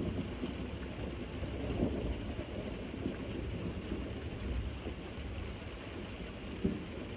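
Steady rain with low rolling thunder rumbling underneath.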